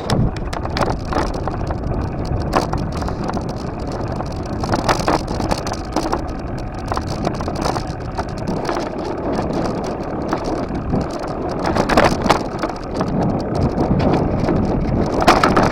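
Wind rushing over the microphone during a bike ride, with frequent short clicks and knocks from the bike rattling over an uneven surface. The sharpest knocks come about 12 seconds in and near the end.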